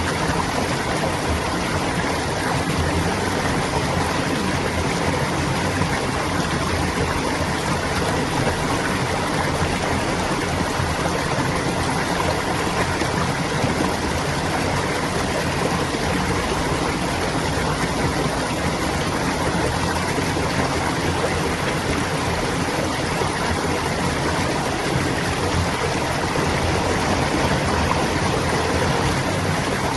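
Clear water babbling as it flows steadily in a stream.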